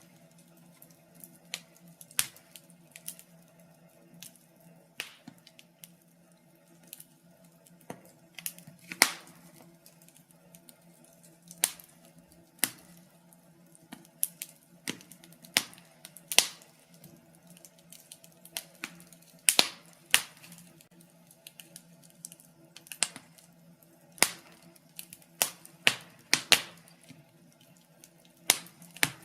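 Wood fire in a fireplace crackling, with irregular sharp pops and snaps, a few of them loud, over a faint steady low hum.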